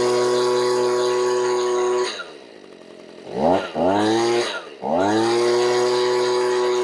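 Stihl BG85 leaf blower's two-stroke engine running steadily at half choke, then its pitch falls and it dies about two seconds in. About a second later it catches again and climbs in speed, falters briefly, then picks up and runs steadily, not yet warmed up.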